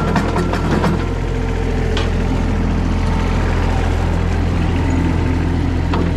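Mini skid steer engine idling steadily, with a run of short clicks in the first second and a single tick about two seconds in.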